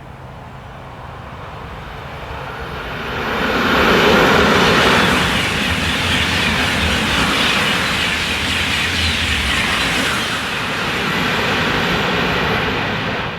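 High-speed TGV train passing through the station at speed. The rushing noise builds over the first few seconds, stays loud for about nine seconds, then cuts off suddenly.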